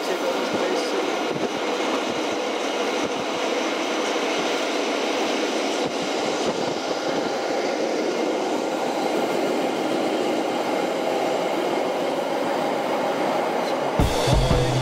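Matterhorn Gotthard Bahn car-shuttle train running along the track, heard from inside a car riding on its wagon: a steady rumble with occasional knocks from the rails. Near the end, music with a regular bass beat comes in over it.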